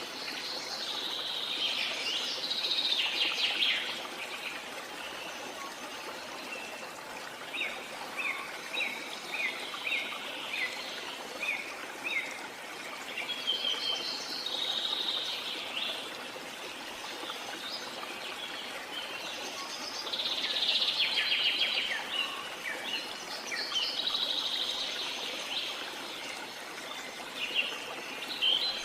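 Birds singing and chirping in repeated phrases over the steady rush of a waterfall. About a third of the way in, one bird gives a quick run of short chirps.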